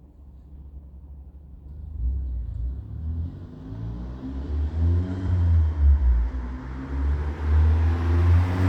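Car exhaust running through an aftermarket 63 mm system with downpipe, resonator and muffler: a low rumble that builds from quiet to loud about two seconds in, its pitch rising and falling with engine speed.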